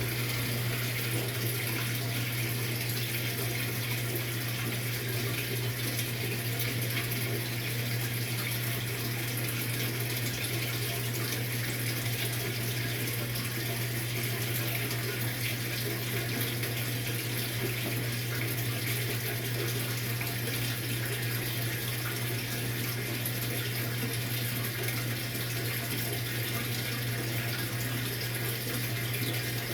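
Maytag MVWX655DW1 top-load washing machine on its tub-clean cycle: water running steadily in the tub over an even low hum.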